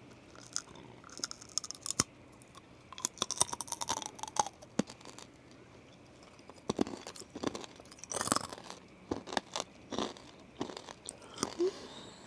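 A person crunching and chewing sugar-coated peanuts close to the microphone, in irregular clusters of crisp crunches.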